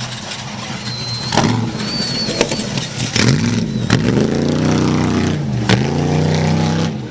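An off-road race vehicle's engine revving hard as it comes up and passes, its pitch climbing and dropping over and over through shifts and throttle changes, loudest from about three seconds in.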